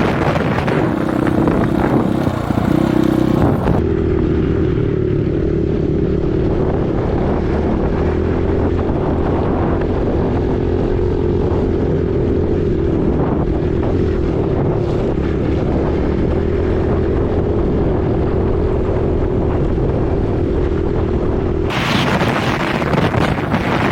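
Dirt bike engine running at a steady speed while riding, with wind buffeting the microphone. For most of the middle the wind drops away and the steady engine note stands out more clearly; the wind returns near the end.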